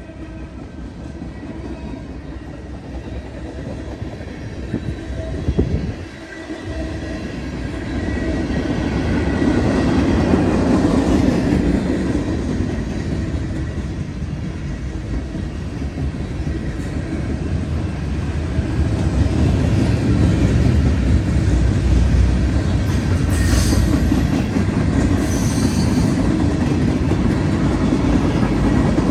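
Freight train's cars rolling past close by, a steady rumble of steel wheels on rail that grows louder over the first ten seconds and then holds.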